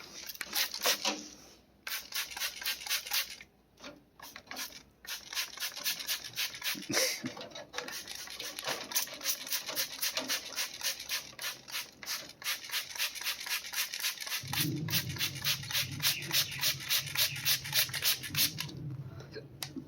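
Hand trigger spray bottle squirting water over and over, several short hissing sprays a second with a few brief pauses, misting a parrot. A low steady hum comes on about three-quarters of the way through.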